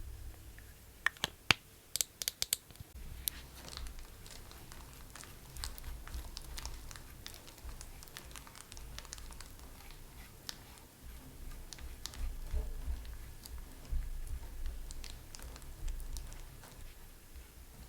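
Makeup tools and containers being handled: a quick run of sharp clicks and taps about a second in, then faint scattered ticks over soft rubbing and handling noise.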